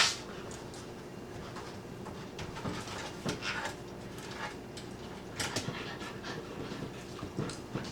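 Labrador puppies panting while they play, with scattered short scuffs and clicks; one sharp click right at the start.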